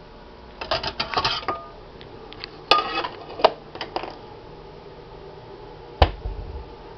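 Clicks and rattles of things being handled at a microwave during cleaning, in two bunches, then one hard knock with a low thump about six seconds in.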